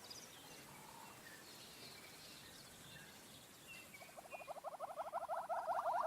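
Bush ambience with faint, scattered bird chirps. About four seconds in, a fast, evenly pulsing animal call starts and grows louder.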